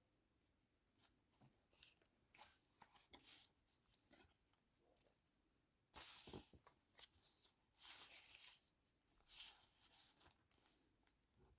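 Quiet paper sounds: collage paper being handled, rustled and torn in short, irregular bursts, the strongest about halfway through.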